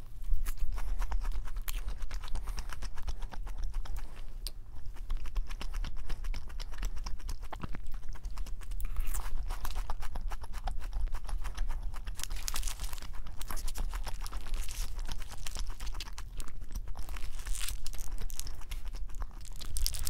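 Close-miked chewing and crunching of a fried cheese ball and a cheeseburger, with bites and the crackle of the burger's paper wrapper now and then.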